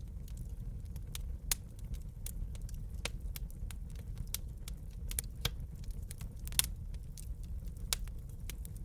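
Wood fire crackling in a fireplace: irregular sharp pops and snaps over a steady low rumble of the burning, with the loudest pops about one and a half seconds in and about six and a half seconds in.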